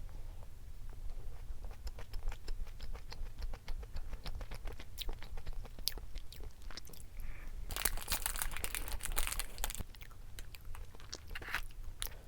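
Close-miked eating sounds: chewing and biting with many short crunchy clicks. About eight seconds in there is a louder rustling, scraping noise lasting about two seconds.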